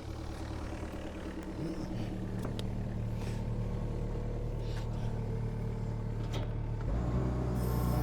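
Compact excavator's diesel engine running steadily, picking up speed at about two seconds and again near the end, with a few light knocks.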